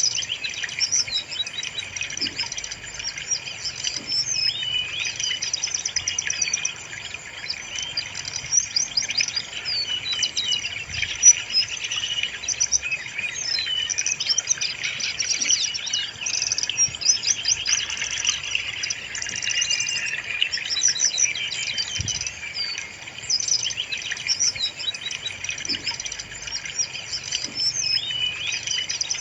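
Brown-chested jungle flycatcher singing continuously: rapid high-pitched chirps, trills and whistled phrases tumbling one after another with hardly a pause.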